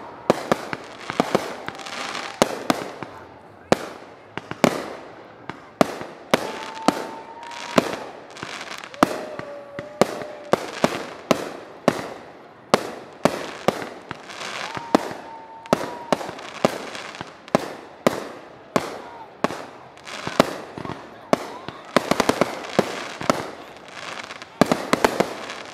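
Fireworks display: aerial shells bursting in a rapid, irregular series of sharp bangs and cracks, several a second at the busiest moments, with a few short whistling tones in between.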